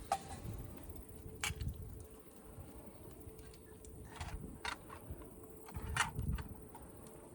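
Wood fire crackling in a Solo Stove wood-burning camp stove, with about five sharp, irregular pops over a low rumble; the loudest pop comes about six seconds in.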